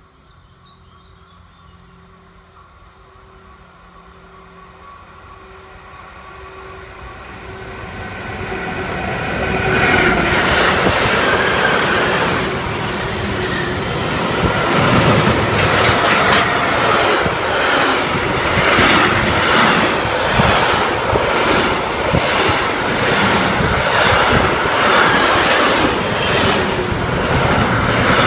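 A train approaching along the track and passing close by: the rumble grows louder over the first ten seconds or so, then the wheels run loudly over the rails with a steady series of clicks as the cars go past.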